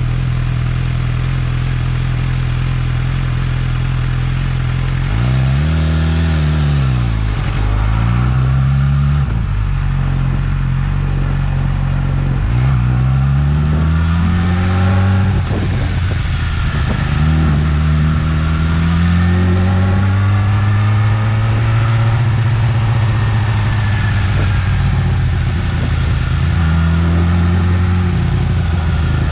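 Yamaha R6 inline-four motorcycle engine on its stock exhaust, running steadily for about five seconds, then rising and falling in engine speed several times, with one longer, slower swell past the middle.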